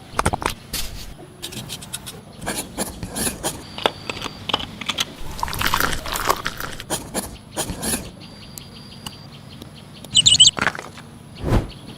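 Taps, clicks and scrapes from hands working small materials while building a miniature house. A bird chirps twice about ten seconds in.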